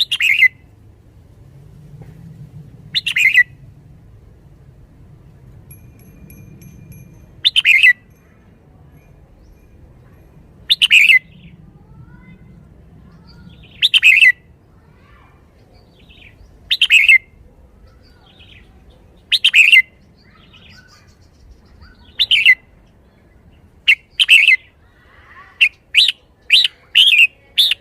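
Red-whiskered bulbul singing loud, short phrases, about one every three seconds, then a quicker run of them near the end.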